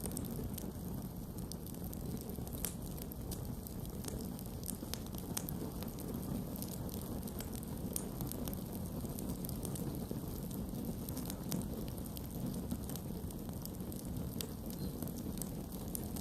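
Campfire burning with a steady low rumble and irregular sharp crackles and pops from the wood.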